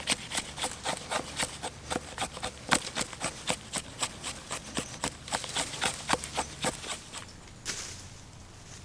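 Dry sticks cracking and snapping in a quick, irregular run of sharp cracks, several a second, stopping about seven seconds in.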